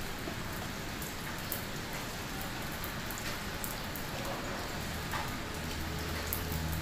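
Steady rain falling, with individual drops ticking sharply and irregularly over the even hiss of the downpour.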